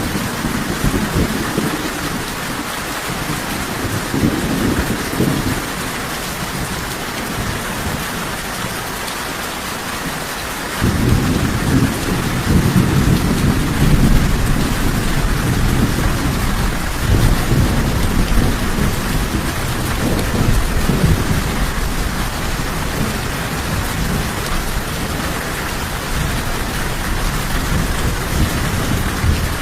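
Steady heavy rain falling, with rolling thunder. A low rumble of thunder sounds at first, and a louder roll of thunder starts suddenly about eleven seconds in and slowly fades away over roughly ten seconds.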